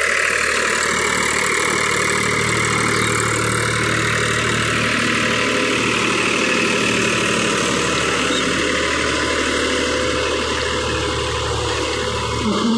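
Powertrac ALT 4000 tractor's diesel engine running steadily.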